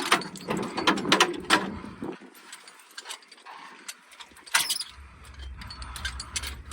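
Metal clanks and clicks of ratchet-type chain load binders being handled, with a burst of sharp knocks over the first two seconds and another about four and a half seconds in. A steady low rumble sets in after about five seconds.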